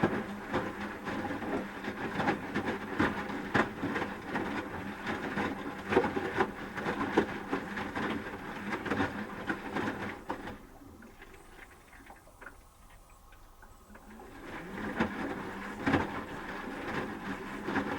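Asko Quattro W6098X front-loading washing machine tumbling its drum during the heating phase, with wet laundry and water sloshing and knocking over a faint motor hum. About ten seconds in, the drum pauses for roughly four seconds, then turns again.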